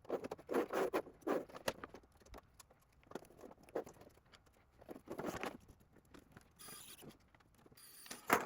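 Hands handling and fitting 3D-printed plastic side plates onto a 3D printer's frame: irregular light clicks, taps and scrapes of hard plastic, busiest in the first couple of seconds.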